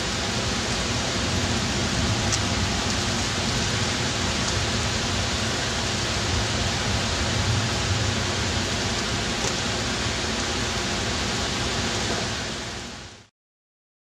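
Steady hiss of rain falling during a thunderstorm, picked up by a camcorder's microphone; it fades out near the end.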